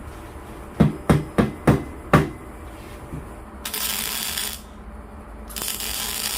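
Five quick hammer knocks, about three a second, then two hissing, rattling bursts of about a second each.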